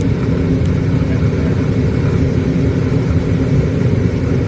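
Gas furnace running in second stage: a steady low rumble of burners and fan motors. A motor in it is drawing well above its rated current, which the technician takes as a sign that it will fail soon.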